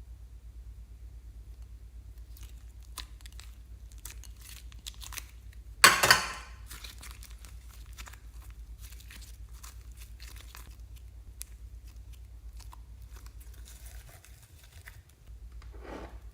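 Crinkling and crackling of packaging being handled close up, with one loud tearing sound about six seconds in, over a steady low hum.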